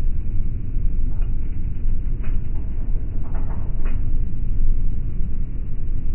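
Steady low rumble of an airliner cabin at cruise: engine and airflow noise. A few faint short clicks sound over it.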